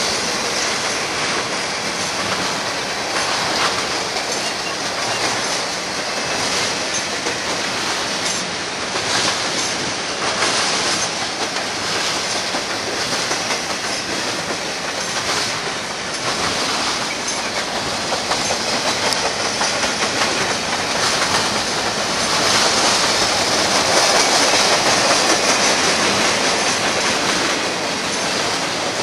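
BNSF freight train of intermodal well cars rolling past at close range: a steady rush of wheel and car noise with rhythmic clicking as wheels pass over rail joints. It grows louder for several seconds in the last third.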